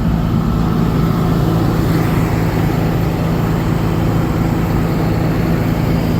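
Cummins 6.7-litre inline-six diesel engine of a Ford F750 truck running steadily with a deep, even hum.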